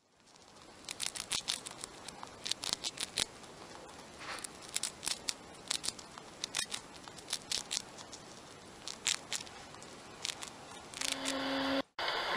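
A hamster gnawing on food: a run of quick, irregular crisp crunches and clicks. Near the end, after a cut, a long steady call from red deer begins.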